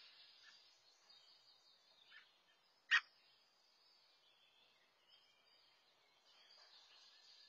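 A single short, sharp bird call about three seconds in, with a fainter one just before it, over a faint steady outdoor hiss.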